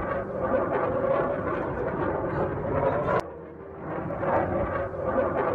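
Jet aircraft noise from a fighter jet, a steady rushing sound. About three seconds in it breaks off with a sharp click, then grows back to the same level.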